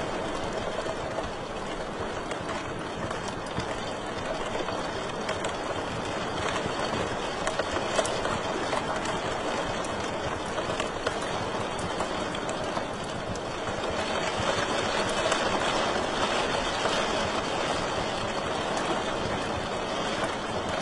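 Wood fire crackling in a fireplace: a steady hiss of burning with many small pops and snaps scattered throughout.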